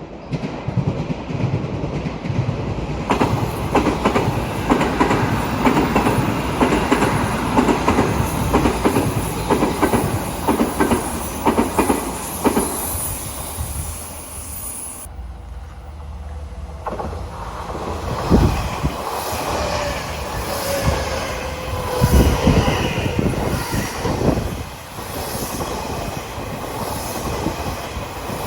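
Odakyu Line electric commuter train running past at close range, its wheels clacking rhythmically over the rail joints. In the second half a tone glides down in pitch over the running noise.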